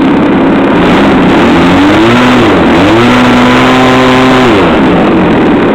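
Gasoline engine of a large radio-controlled aerobatic airplane in flight, its pitch gliding up and down with the throttle, holding steady for about a second and a half, then dropping away. Heavy wind noise on the microphone runs underneath.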